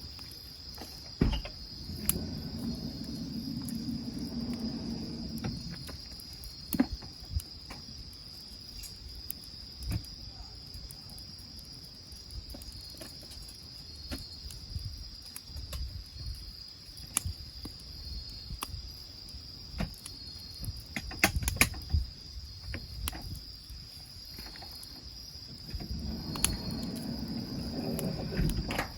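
Steady high-pitched insect trilling, with scattered sharp clicks and knocks. A low, dull noise swells twice: a few seconds in and again near the end.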